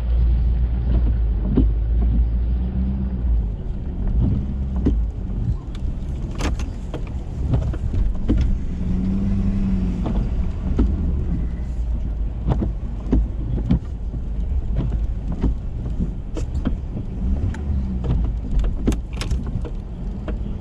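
Ford F-350 pickup's engine running steadily under load while it plows snow, with scattered sharp knocks and clunks.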